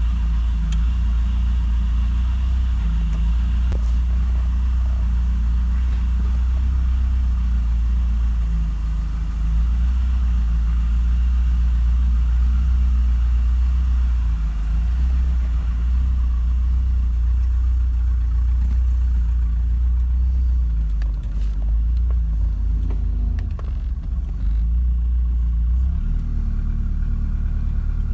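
Porsche 944 Turbo's turbocharged four-cylinder engine running at a steady, low cold idle, with a few light rattles in the last third. It is not idling well cold: the tuner's diagnosis is that it needs an idle valve.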